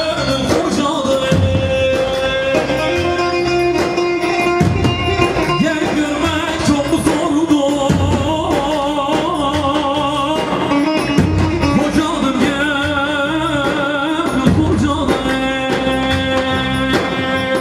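Live Turkish wedding-band music: singing with wavering held notes over an electric keyboard-style accompaniment and a steady low beat.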